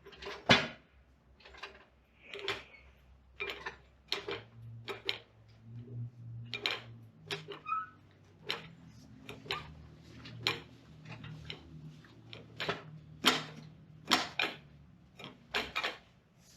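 A run of sharp, irregular clicks and knocks, about one a second, from hands-on work on the car. A low steady hum joins in about four seconds in.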